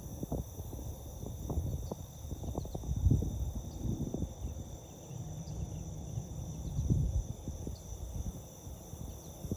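Steady high-pitched chorus of insects, several unbroken tones, under irregular low rumbling and thumps that are loudest about 3 and 7 seconds in.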